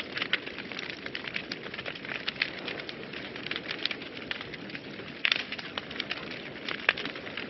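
Wood fire in a fireplace burning with a steady low rush and irregular crackles and pops, a few louder pops about five and seven seconds in.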